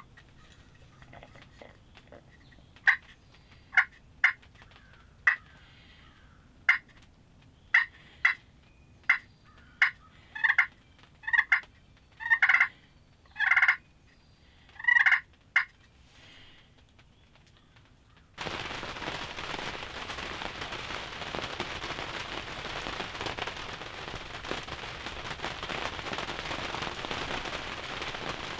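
Turkey calling: a string of short, sharp clucking calls, quickening, with a few longer calls near the end. About two-thirds of the way through, steady rain starts suddenly and keeps on.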